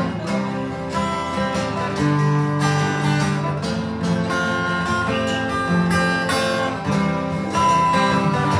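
Acoustic guitar playing an instrumental passage between sung lines, picking single melody notes over chords.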